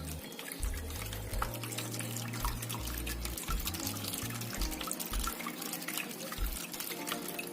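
Water trickling and splashing steadily down a small tabletop waterfall fountain fed by a mini submersible pump, with many small drips. Low bass notes of background music sound under it, mostly in the first half.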